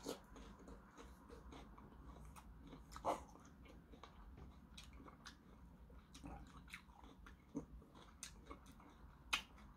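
A person chewing a crisp raw mouthful: quiet, wet crunching, with a louder crunch about three seconds in and again near the end.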